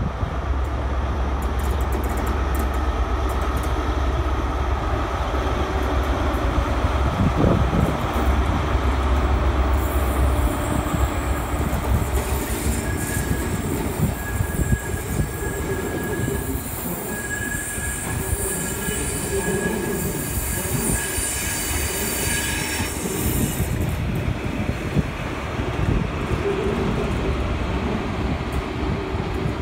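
ScotRail Class 43 HST diesel power cars hauling Mark 3 coaches through the station. A steady low diesel hum dominates the first third, then a high hiss and an on-off squeal from the wheels come in for about ten seconds, followed by irregular knocking as the wheels run over rail joints and points.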